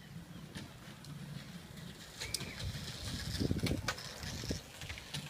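Outdoor sound with a low rumble, a few short clicks and a brief bird chirp about two seconds in.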